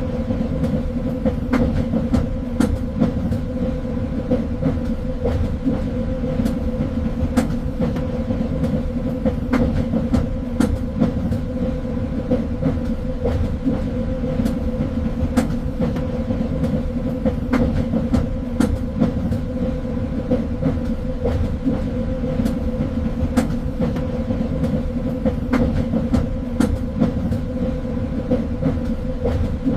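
Train running along the track: a steady low rumble with a constant hum, broken by frequent irregular clicks and rattles.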